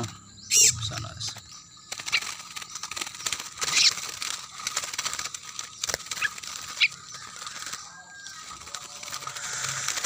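A brief loud rustle of wings about half a second in as a released bird takes off from the hand, then a few short, scattered bird chirps.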